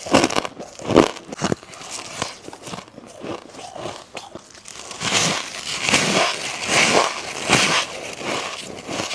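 Close-miked bites into fluffy humidifier-grown freezer frost. Sharp crunches come near the start and about a second in, then a denser run of crunching and chewing in the second half.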